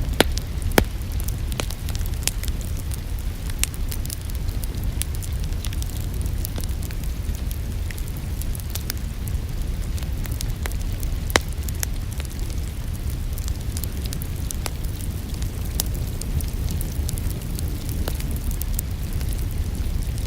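Wood fire in a fireplace crackling and popping, with irregular sharp snaps over a steady low rumble; a few louder pops near the start and about eleven seconds in.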